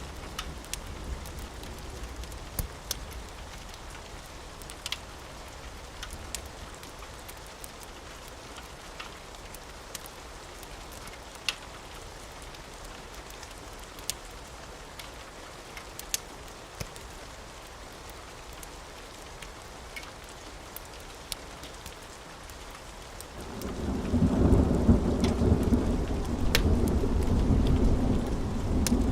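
Steady rain with scattered sharp pops and ticks. A low rumble of thunder fades out in the first seconds, and a new, louder rolling rumble of thunder rises about 23 seconds in and keeps going.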